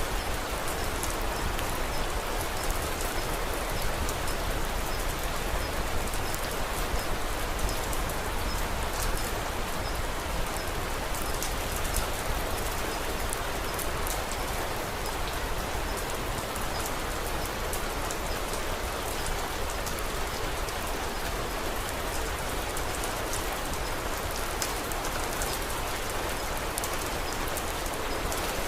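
Steady rain falling: a constant hiss with many small, sharp drop ticks over it.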